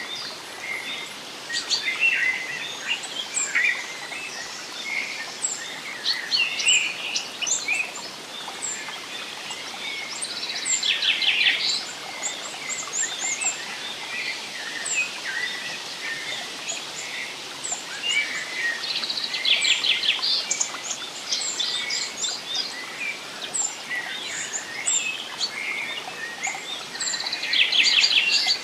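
Several wild birds chirping and whistling together over a steady background hiss. One bird repeats a rapid, even trill about every eight or nine seconds.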